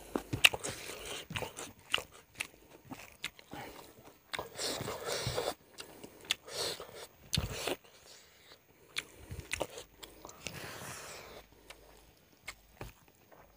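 Close-miked eating sounds: a person chewing chicken and rice with many sharp wet clicks and smacks, between which come soft stretches of fingers gathering rice on the plate.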